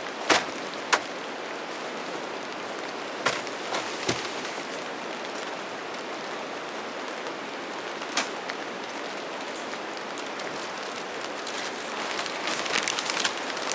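Steady rain falling, with occasional sharp taps of heavier drops and a quicker run of taps near the end.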